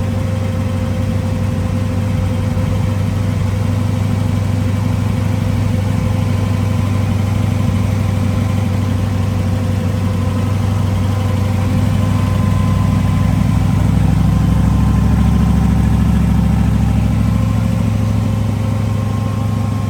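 Car engine droning at a steady cruise with road noise, swelling slightly about two-thirds of the way through.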